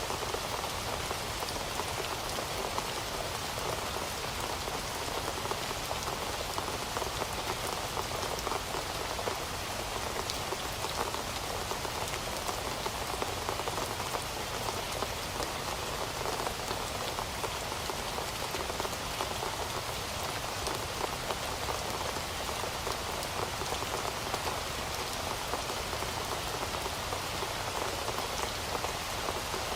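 Heavy rain falling steadily, a dense even patter of drops on a hard surface with no letup.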